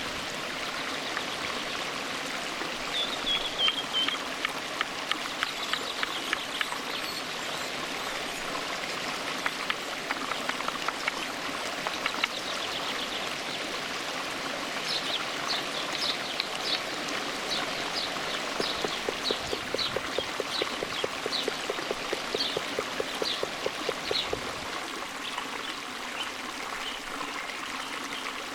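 Stream water flowing steadily, with scattered short clicks. From about halfway, a bird calls in a run of short high chirps.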